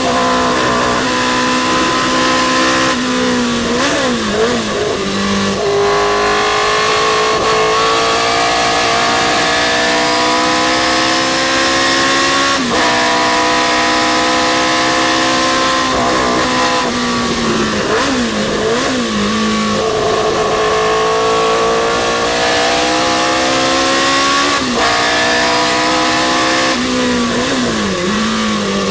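Historic racing sports car engine at full throttle, climbing steadily in pitch. There is a sharp drop at an upshift about halfway through. Three times, about four seconds in, around eighteen seconds and near the end, it comes off the throttle for braking, with quick blips on the downshifts before pulling hard again.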